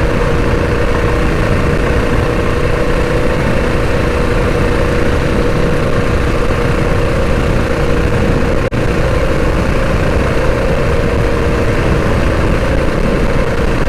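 Modified Predator 212 single-cylinder four-stroke engine on a mini bike running steadily at part throttle, with no revving up or down. The engine is still being broken in and has not been run at full throttle.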